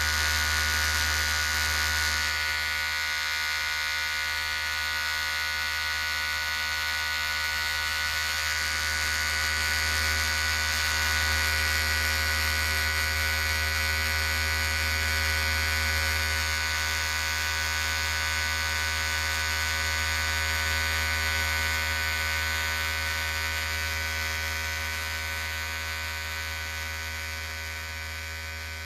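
Electric hair clippers running with a steady buzz, fading down near the end.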